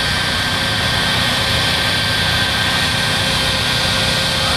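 Shockwave jet truck's three jet engines running at a steady speed: a continuous loud roar with a high whine held at one pitch.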